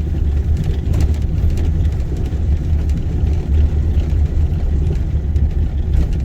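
Pickup truck driving on a bumpy road, heard from inside the cab: a steady low rumble of engine and tyres, with a few faint knocks and rattles.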